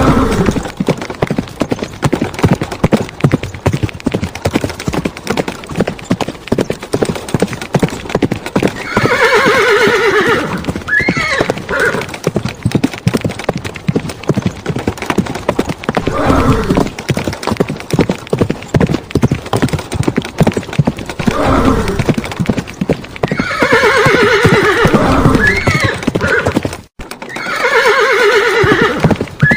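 Horses neighing several times, each a long wavering whinny, over a fast, continuous clip-clop of hooves.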